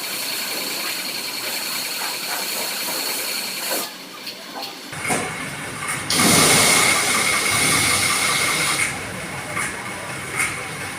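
Car wash high-pressure washer running, a steady hiss of spray with a high whine. It stops about four seconds in. About six seconds in a louder burst of spray hiss starts and lasts under three seconds, followed by scattered clicks and knocks.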